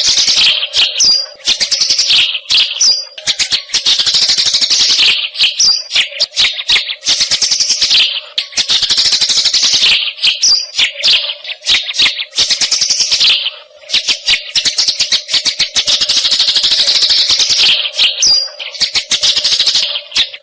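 Eurasian tree sparrow (burung gereja) giving fast, excited chattering calls of the 'tarung' (fighting) type, in bouts of about two seconds that repeat with short breaks.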